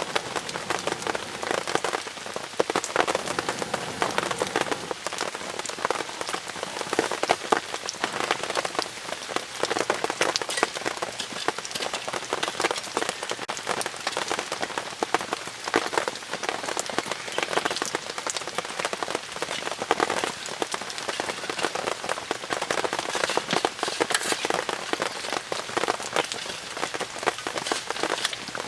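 Steady rain pattering on the fabric of an Enmaku (炎幕) tent: a dense, even spread of small drop impacts with no let-up.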